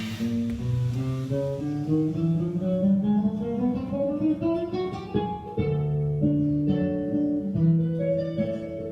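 Background music on plucked acoustic guitar: single notes stepping steadily upward for the first five seconds or so, then held notes and chords.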